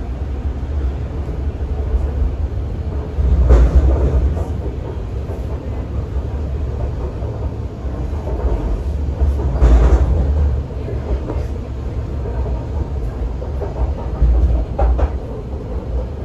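MTR C-train electric multiple unit running along the track with a steady low rumble, swelling louder three times, at about three and a half seconds in, at about ten seconds and again near the end.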